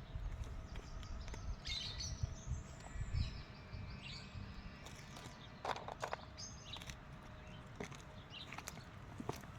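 Songbirds chirping intermittently in short calls, over a low rumble during the first few seconds, with a few sharp clicks about six seconds in.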